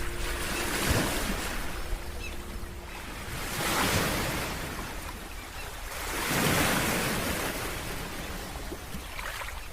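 Sea waves washing onto a shore, three swells rising and falling about every two and a half to three seconds.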